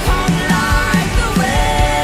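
Live worship band music: a held, gently gliding melody line over a steady drum beat.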